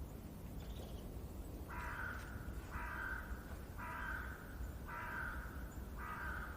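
A bird giving a harsh call five times, about once a second, over a low steady rumble of background ambience.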